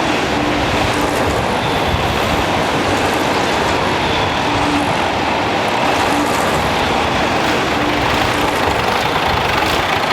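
David Brown tractor engine running steadily under load, pulling a plough.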